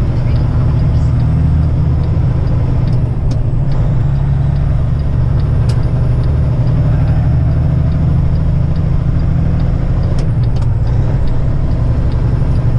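Semi truck's diesel engine and road noise droning steadily inside the cab while driving, with a few faint clicks.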